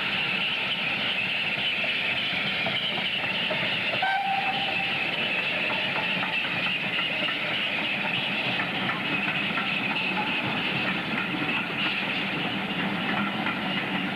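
Railway train running along the line: a steady, continuous rumble and rattle of the wheels on the track.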